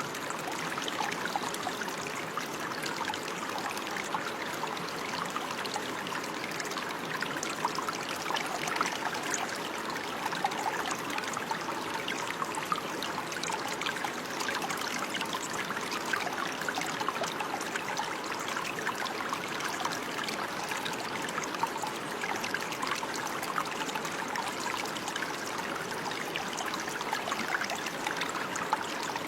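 Running water, trickling and babbling steadily with many small splashes and no change in flow.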